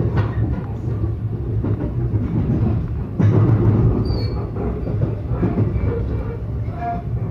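Local electric train running along the line, a steady rumble of wheels on rails with faint clicks. The noise gets suddenly louder about three seconds in.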